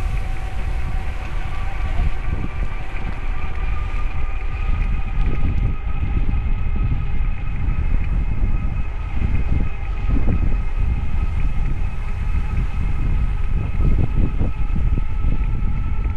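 Wind rumbling and buffeting on the microphone, rising and falling in gusts, over a steady high whine of several held tones.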